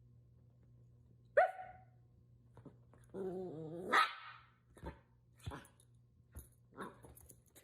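A dog barking: one sharp bark about a second and a half in, a longer drawn-out call rising into a louder bark about four seconds in, then a few short, quieter sounds.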